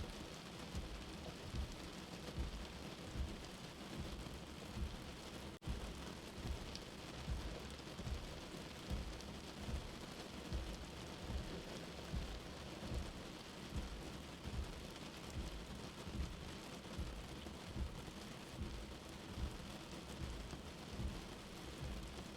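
Steady rain heard from indoors, mixed with a soft low heartbeat that thumps about every 0.8 seconds. The sound cuts out for an instant about five and a half seconds in.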